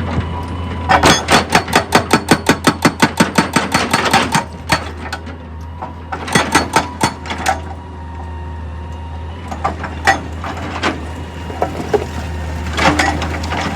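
Heavy rock-working machinery: a steady low engine drone under bursts of fast, even impacts, about five a second, as rock is broken. The longest run of strikes comes about a second in, and shorter clusters follow later.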